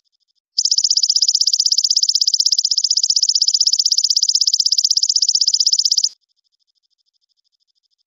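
A songbird's rapid, evenly pulsed high-pitched trill, about a dozen pulses a second, starting about half a second in and cutting off abruptly about six seconds in.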